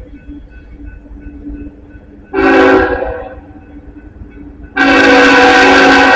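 BNSF diesel locomotive's multi-chime air horn sounding for a grade crossing: a short blast about two seconds in, then a long blast from about five seconds in, over the low rumble of the approaching train.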